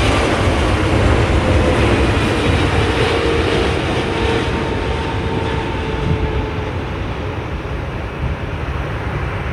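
Heavy wide-body jet airliner landing, its engines making a loud rumbling roar with a faint whine that sinks slightly in pitch and dies away about two-thirds of the way through, the roar easing off towards the end.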